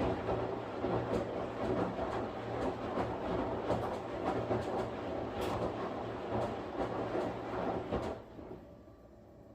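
Washing machine running, a steady churning rumble with a low hum and many small knocks and rattles, that cuts off sharply about eight seconds in.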